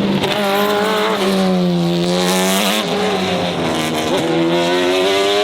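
A performance car's engine held at high revs, its pitch sagging and rising again several times, over a haze of tyre noise.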